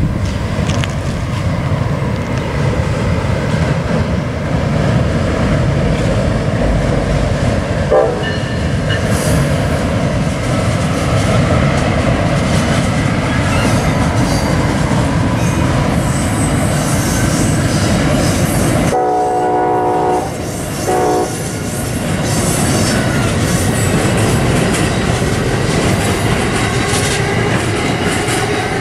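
Amtrak electric passenger train crossing a bridge, its wheels making a steady running noise on the rails. A brief horn toot comes about eight seconds in. Around twenty seconds in the locomotive horn sounds a longer blast followed by a short one.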